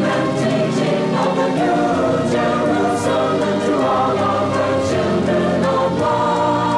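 A congregation singing a devotional hymn together with musical accompaniment, steady and full throughout.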